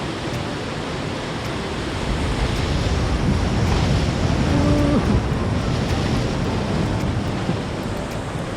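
Ocean surf rushing, swelling louder for a few seconds in the middle as a wave comes in, with wind buffeting the microphone.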